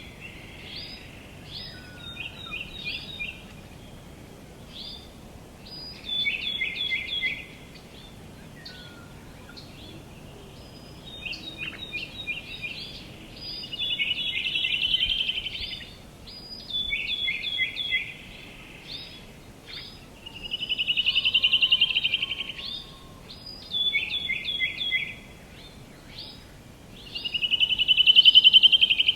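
Songbirds singing: short phrases of quick descending notes repeated every few seconds, with three louder buzzy trills, the last and loudest near the end, over a steady faint background hiss.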